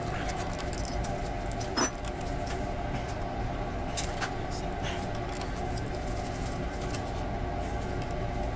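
Steel chuck jaws being handled and tried in a lathe chuck: a sharp metal click about two seconds in and a couple of lighter clinks around four seconds, over a steady mechanical hum.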